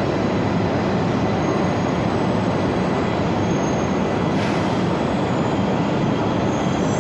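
Shinkansen train rolling into a station platform: a steady, loud rumble of wheels and running gear, with brief faint high wheel squeals a couple of times.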